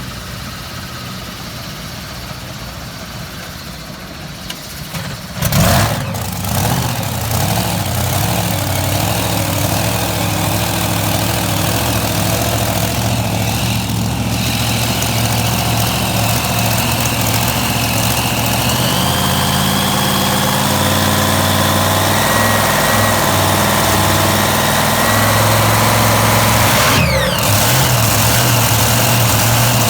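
Super-modified pulling tractor's engine firing up suddenly about five seconds in, then running steadily as it warms up, its note shifting partway through.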